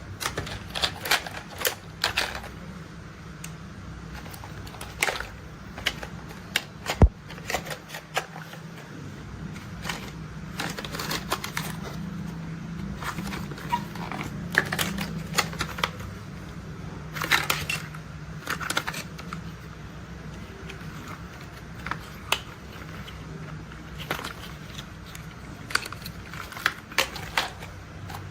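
Irregular clicks and taps of plastic toy construction vehicles being handled, over a low steady hum.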